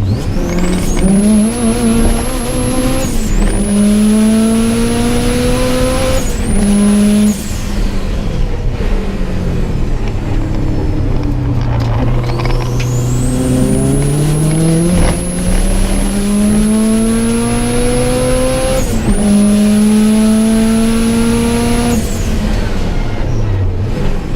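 Subaru Impreza GC8's flat-four engine pulling hard under full throttle and climbing in pitch through the gears, with a sharp break at each upshift. About a third of the way in the revs fall off for several seconds, then the engine pulls again through two more shifts. A high whine climbs and holds steady while the engine is under load.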